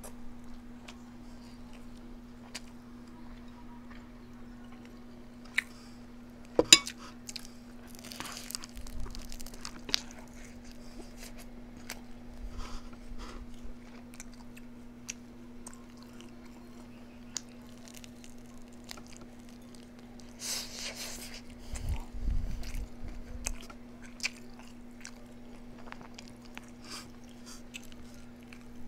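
A person eating close to the microphone: chewing and biting food, with crunches and scattered sharp clicks, the loudest about seven seconds in.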